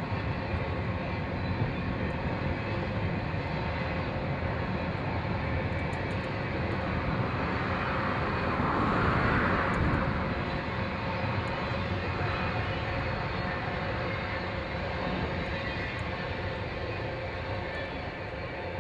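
Train rumbling past, its noise swelling to a peak about halfway through and then easing off.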